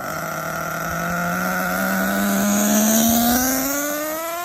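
Hong Nor Force .32 (5.2 cc) nitro engine of an RC truggy run at full throttle during break-in, its pitch climbing steadily as the truck accelerates. It grows louder up to about three seconds in, then eases off slightly.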